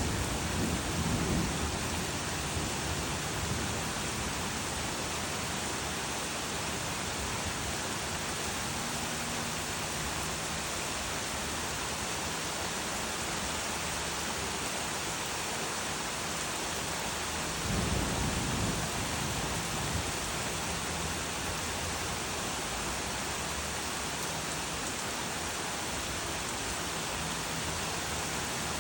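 Steady rain, with thunder rumbling low at the very start and again about two-thirds of the way through.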